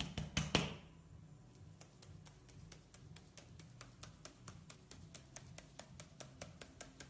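A few knocks, then a steady run of sharp, regular ticks, about three or four a second.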